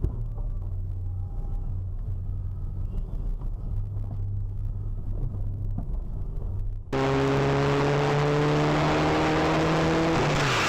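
Car engine and road noise, a steady low drone. About seven seconds in it cuts abruptly to a louder engine tone that climbs slowly in pitch as the car accelerates, then drops off just before the end.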